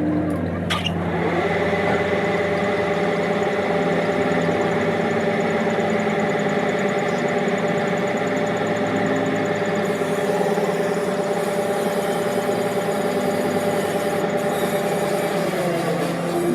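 A machine's motor spinning up about a second in, running at a steady speed with an even hum, and winding down near the end.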